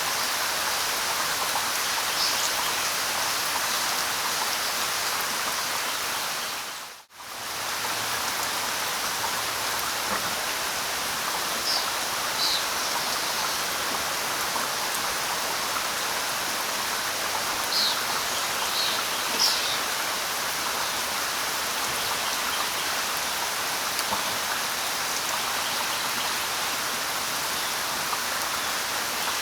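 Steady light rain with a few short, high bird chirps scattered through. About seven seconds in, the sound dips out for a moment and fades back in.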